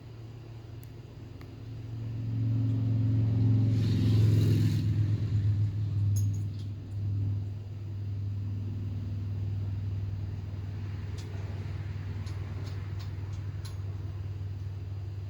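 A motor starts up and runs with a steady low hum. It is loudest about four seconds in and then settles. A few faint light clicks come over it later.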